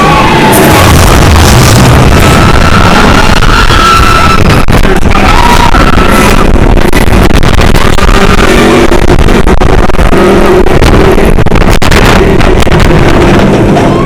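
Loud music together with the rush and rumble of a steel launched roller coaster running along its track, dense and steady throughout.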